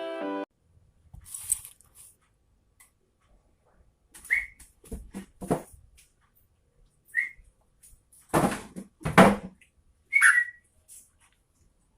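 Yellow-vented bulbul (trucukan) calling: a series of about nine short, separate whistled and chattering notes with gaps between them, the loudest pair about two thirds of the way through.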